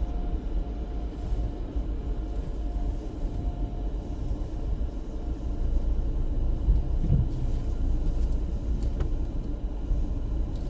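A car moving slowly, with a steady low engine and road rumble and a few faint knocks.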